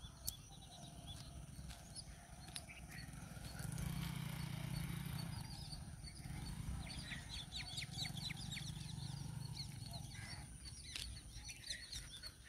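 Quiet rural outdoor ambience with faint birds chirping, including a quick run of chirps about seven seconds in, over a faint low hum that comes and goes.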